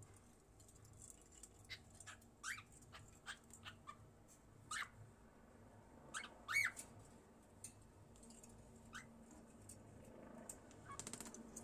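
Small pet bird giving scattered short chirps, with a louder pair of chirps about six and a half seconds in and a quick fluttering trill near the end.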